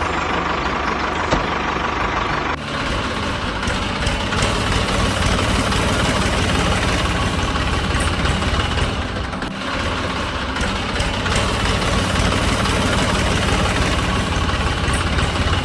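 An engine idling steadily, with a brief dip about nine and a half seconds in.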